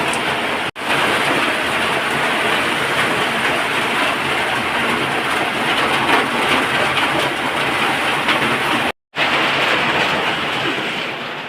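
Heavy rain pouring down in a steady, dense downpour. The sound cuts out sharply twice for a moment, once early on and once about nine seconds in.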